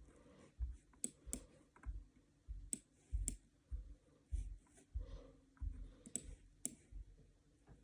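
Scattered sharp clicks from computer controls, about six in all, with soft low thuds of handling between them.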